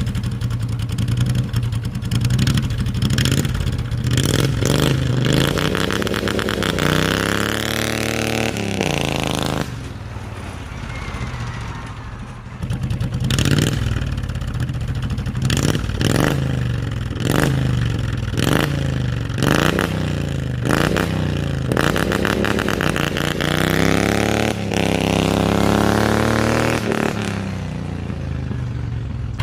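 An engine running and being revved, with many quick blips of the throttle and two long pulls where the pitch climbs steadily, about five seconds in and again near the end. It drops back briefly a third of the way through.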